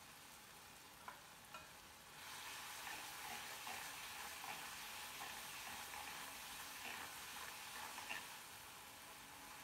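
Chopped tomatoes and onions frying in oil in a stainless steel kadai, stirred with a spatula. After two light clicks, the sizzle gets louder about two seconds in, with a short scrape of the spatula on the steel pan about every half second.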